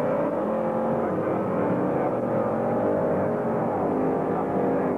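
Several drag-racing cars' engines running steadily at the strip, their pitches holding level, with one briefly dropping in pitch about four seconds in.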